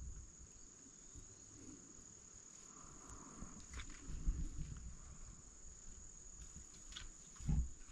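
Steady high-pitched drone of insects in the summer woods, with faint low rustling and a few soft knocks underneath.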